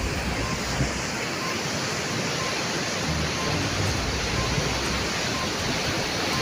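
Flash floodwater rushing in a steady, even wash of noise, with a low rumble swelling and fading now and then.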